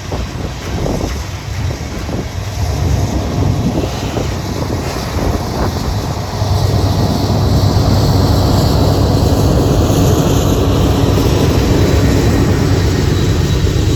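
Freight train rolling slowly past with wind buffeting the microphone. About halfway through, a louder, steady diesel engine drone with a held low pitch comes in, typical of a locomotive unit passing close by.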